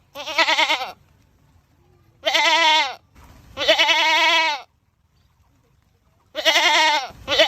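Goat screaming: a run of loud, wavering bleats, about four separate calls of under a second each, with another starting near the end.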